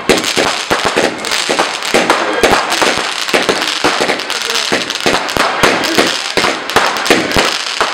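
Fireworks going off: a rapid, dense run of bangs and crackles, several a second.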